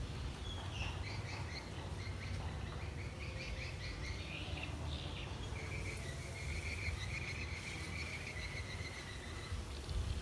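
Garden wildlife chirping: short high chirps, then a steady high trill starting about six seconds in and holding for some three seconds, over a low rumble.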